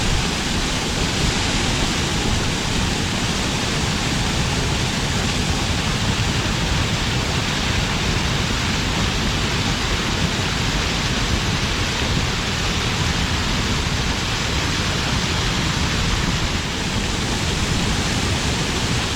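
Water pouring over a stream check dam, a steady, unbroken rush of falling water.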